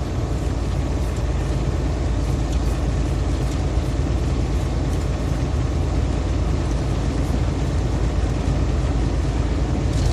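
Loaded semi-truck's diesel engine and road noise droning steadily inside the cab at highway speed.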